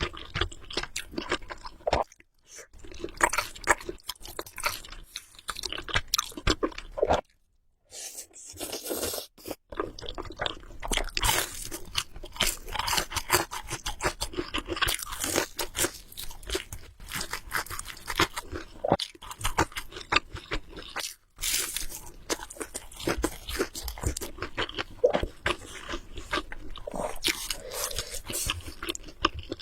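Close-miked eating sounds: a person chewing and biting food, a dense, irregular run of wet clicks and crunches. There are short pauses about two seconds in, around seven seconds in and about two-thirds of the way through.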